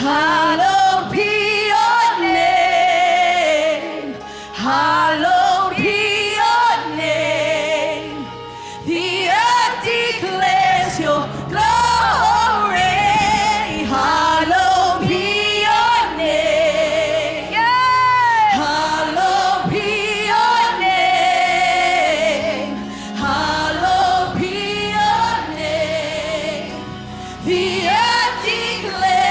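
Live gospel worship music: singers vocalizing over a band, with voices sliding through long held notes and runs with a wavering vibrato.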